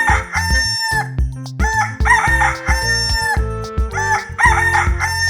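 Rooster crowing about three times, cock-a-doodle-doo, over background music with a low, steady beat.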